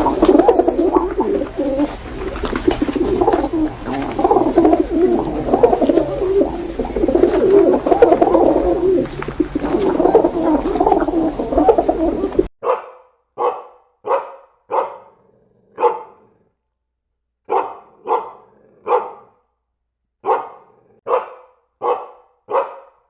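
A dense chorus of many birds calling over a low hum, cutting off suddenly about halfway through. Then a dog barks in short runs of quick barks with brief pauses between them.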